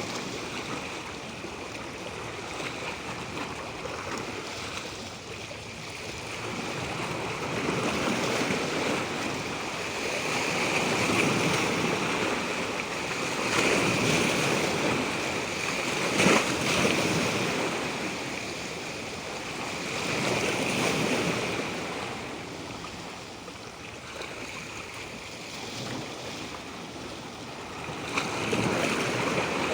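Natural water rushing steadily, swelling louder and easing off every few seconds, like waves washing in.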